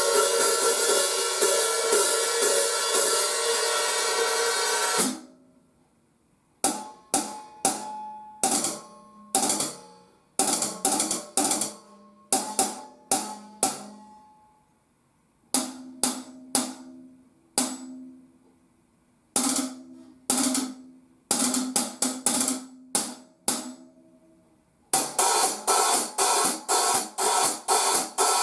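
A pair of 14-inch hi-hat cymbals being played for a sound demo. They ring in a continuous open wash for about five seconds and are cut off sharply, then struck in single strokes and short groups with pauses between them, and near the end in a quick even run of strokes.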